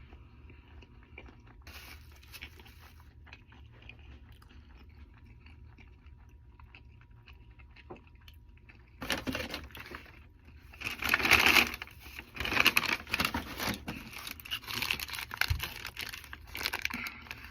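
Eating sounds: quiet chewing for the first several seconds, then from about nine seconds in, loud, irregular crinkling and rustling of paper fast-food packaging.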